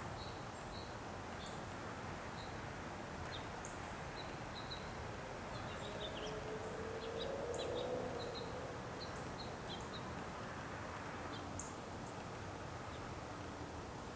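Small birds giving short, high chirps scattered throughout, over a steady outdoor hush. A low hum swells and fades around the middle.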